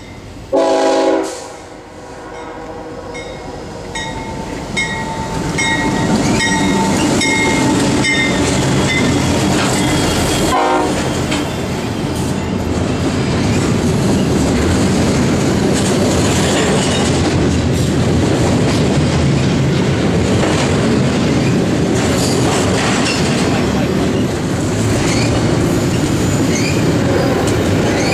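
Freight locomotive horn sounds one short blast about half a second in, the loudest moment. Then a double-stack intermodal freight train passes close by, its cars rumbling and clicking over the rail joints, growing louder over the first few seconds and then holding steady.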